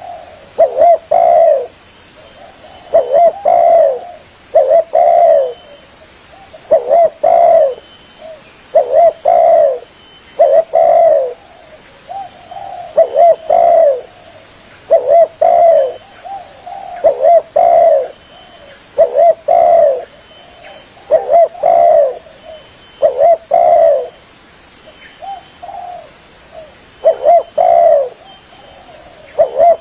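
Spotted dove (tekukur) cooing over and over, loud short coos in groups of two or three about every two seconds, with softer notes between them. It is a recorded song used as a lure call to attract wild doves.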